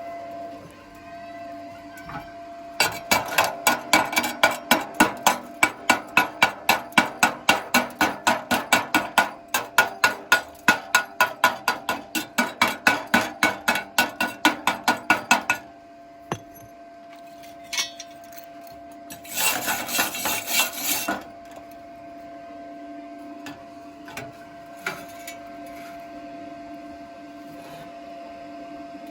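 A hammer striking metal in a steady run of sharp blows, about three a second, for some twelve seconds, then a short scraping burst. A faint steady hum runs underneath.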